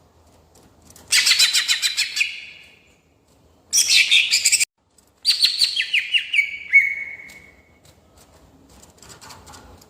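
Green leafbird (cucak ijo) singing in three bursts of fast, rolling chattering notes, the last phrase stepping down in pitch; the second burst cuts off abruptly.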